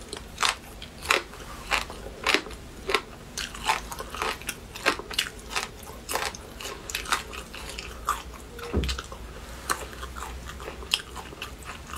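Close-up chewing of a crunchy, chili-coated snack, with crisp bites and crunches coming about twice a second.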